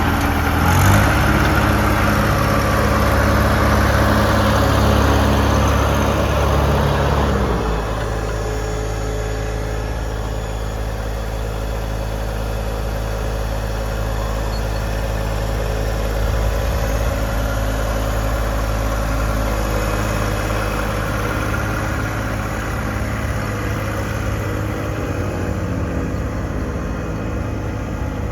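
John Deere 1025R compact tractor's three-cylinder diesel engine running at raised speed, then throttled back about seven seconds in to a steady idle.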